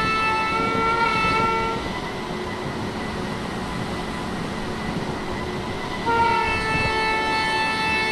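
Indian electric train's horn blowing a multi-tone chord. The first blast cuts off about two seconds in, and a second long blast starts about six seconds in, over the rumble of a passing train.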